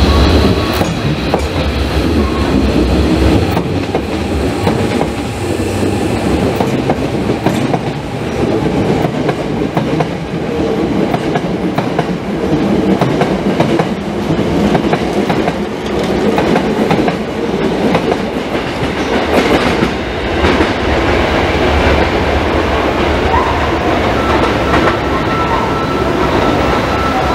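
Hankyu electric trains running close by on the main line: steady wheel and rail noise with repeated clickety-clack as the wheels cross the rail joints and points. Near the end a steady tone joins in as another train approaches.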